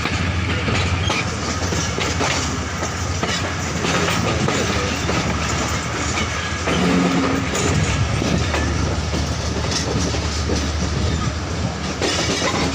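Passenger train running along the track: a steady rumble and rattle of the carriage in motion.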